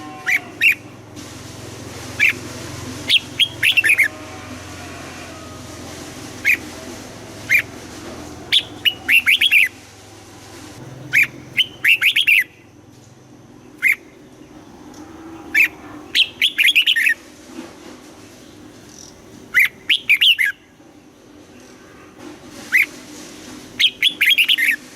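Red-whiskered bulbul singing in short bursts of quick whistled notes, a phrase every one to three seconds, some of them single notes and some rapid runs.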